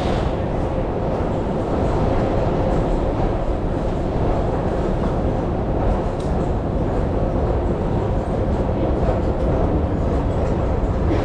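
Budapest M2 metro train running, a steady loud rumble with a faint steady tone.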